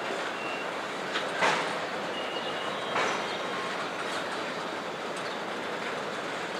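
Freight train of tank cars rolling slowly on yard track: a steady rumble of wheels on rail, with a few sharp clanks about a second and a half in and again at three seconds, and brief faint wheel squeals.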